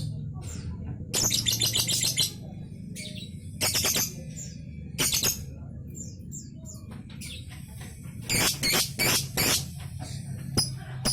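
Lovebird chattering in short bursts of rapid, shrill chirps, about five bursts with pauses between, the longest about a second long, a little after the start and again near the middle.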